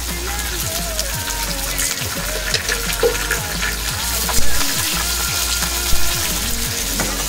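Food sizzling in a hot frying pan, with a few brief knocks, under background music with a repeating low beat.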